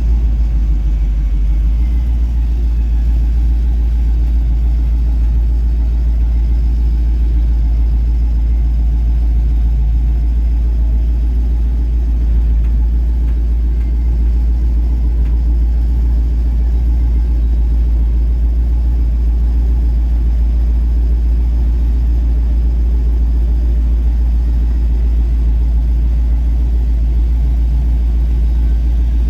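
Vehicle engine running steadily with a deep, even low rumble.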